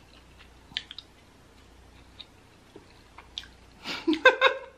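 Soft chewing with a few faint clicks, then near the end a woman's voice briefly sings or hums a few notes of a tune.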